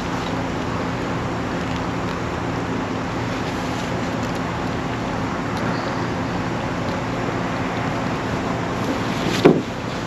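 Steady engine drone with road and wind noise, heard from inside the cab of a 1966 Ford F-250 on the road. A single short, loud sound falls in pitch about nine and a half seconds in.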